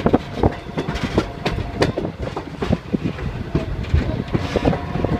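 A passenger train rolling along the track, with irregular clacks, knocks and rattles from the wheels and cars over a steady rumble, and a faint steady squeal.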